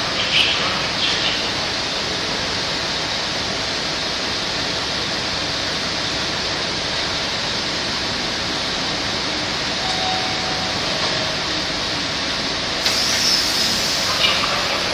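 Passenger train's coaches rolling slowly past as it departs, a steady even noise of wheels on rails. A few brief higher-pitched sounds come about a second in and again near the end.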